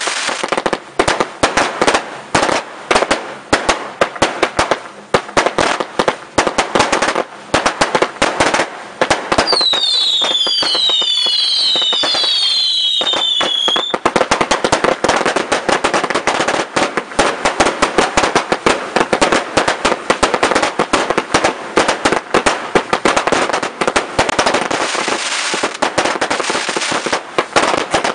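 Fireworks display: a continuous barrage of bangs and crackling. About ten to fourteen seconds in, several whistling fireworks give falling whistles over it.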